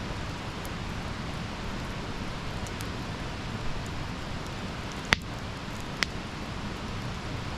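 Wood campfire burning: a steady hiss and rustle of flames with scattered sharp crackles and pops, the two loudest about five and six seconds in.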